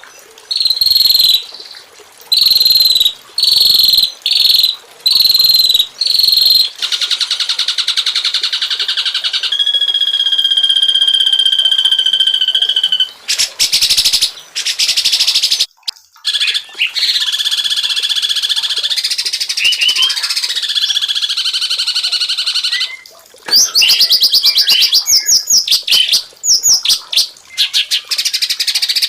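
A string of different songbird calls and songs, one after another. First comes a short, downward-slurred chirp repeated about once a second, then a buzzy trill, a steady high note held for about three seconds, varied warbling, and near the end a fast run of rapid repeated notes.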